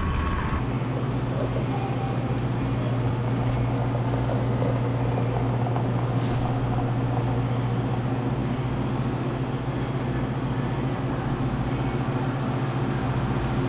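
Steady low drone of a vehicle's engine and road noise heard from inside the cab while driving on the highway.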